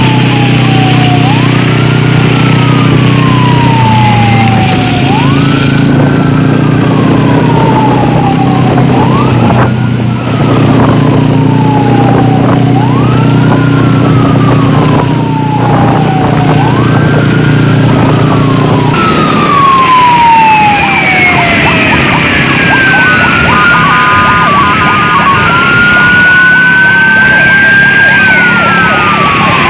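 Emergency sirens in an escort convoy: a wailing siren that rises quickly and falls slowly, repeating about every three and a half seconds over a steady engine hum. About two-thirds of the way through the pattern changes, with long slow sweeps and a second siren overlapping.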